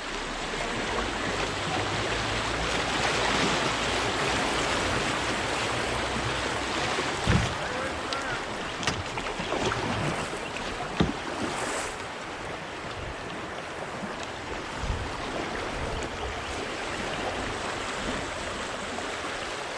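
Fast-flowing creek water rushing steadily, with a few sharp knocks about seven, nine and eleven seconds in.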